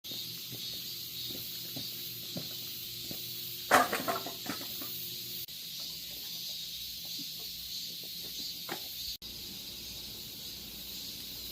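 Wood fire burning under a simmering cast-iron gamasot cauldron: a steady hiss with scattered small pops, and a quick cluster of louder cracks about four seconds in.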